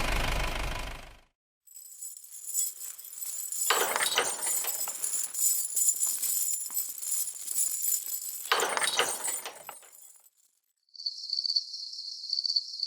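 A high, jingling shimmer for about eight seconds, with two louder swishes in it. Near the end a steady high, pulsing chirp like crickets takes over.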